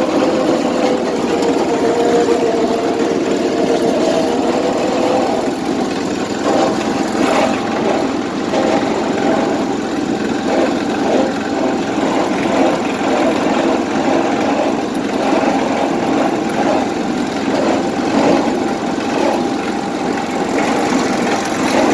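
Small tractor engine running steadily while the tractor is driven in fourth gear, its pitch wavering during the first few seconds, with rattling and clicking from the machine.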